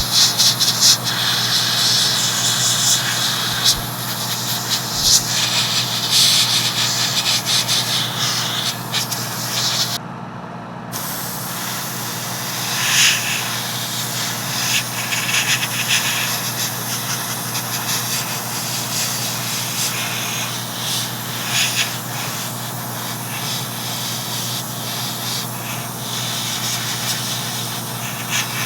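Airbrush spraying hull paint onto a plastic ship model in bursts of hiss, over a steady hum. The hiss drops out briefly about ten seconds in.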